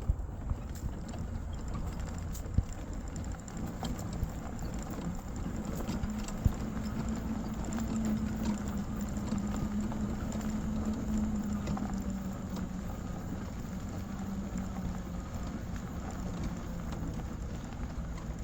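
Footsteps on pavement, with a low hum that swells and then fades in the middle, as of a passing vehicle.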